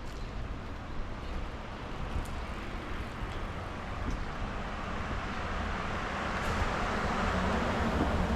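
Road traffic noise: a vehicle passing, its tyre hiss swelling to a peak near the end over a steady low rumble.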